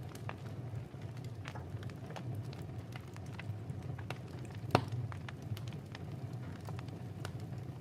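Wood fire crackling in a fireplace: irregular small pops and snaps over a steady low rumble, with one sharper, louder pop about five seconds in.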